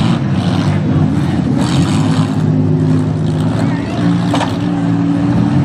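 Several minivan engines running hard and revving together in a demolition derby, the pitches rising and falling as the vans manoeuvre.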